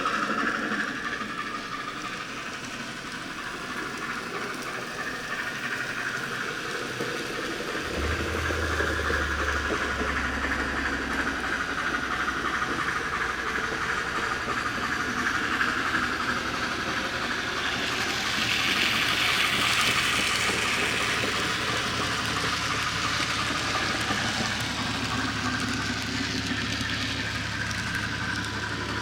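N scale model train running on the layout, giving a steady hissing, train-like sound. A low hum comes in about eight seconds in and keeps going.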